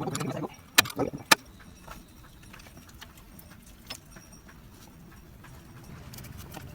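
Metal hand tools clinking during engine work: three sharp clicks about a second in, then only faint ticks and handling noises.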